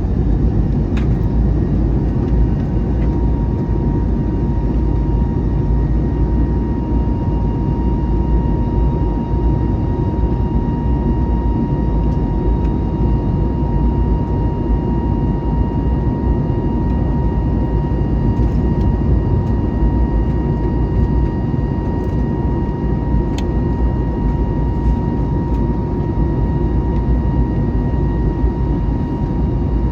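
Airbus A321neo cabin noise heard from a window seat: a steady, loud, low roar from the Pratt & Whitney geared turbofans and airflow, with a steady high whine that comes in about a second in. The engine pitch does not change.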